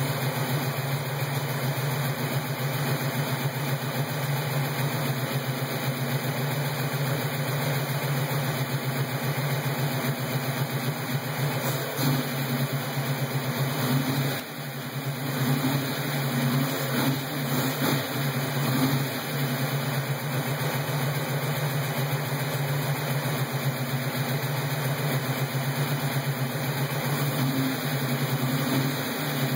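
Ford 302 small-block V8 with a fresh fuel-injection conversion idling on its first startup. The revs waver, with a brief dip about halfway through.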